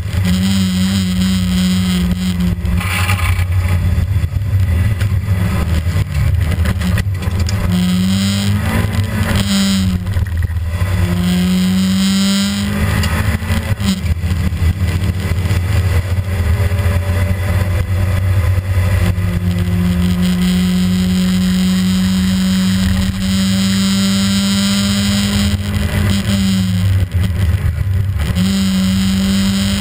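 Rally car engine heard from inside the stripped cabin, revving hard under load, its note rising and then dropping sharply several times in the first half and holding a long high pull in the second half before falling near the end. A steady rush of road and tyre noise runs underneath.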